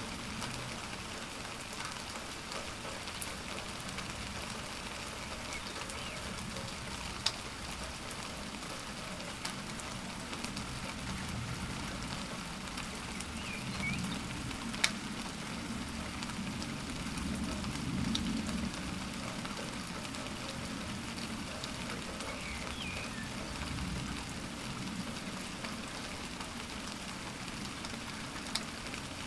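Steady rain falling, with a few sharp drips striking close to the recorder. A low rumble swells and fades around the middle.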